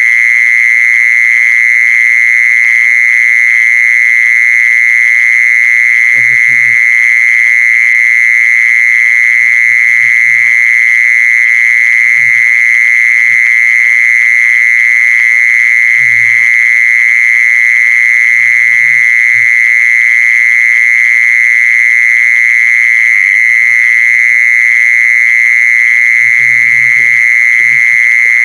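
A singing insect (Thai 'jee-son') calling in one loud, steady, unbroken high-pitched trill.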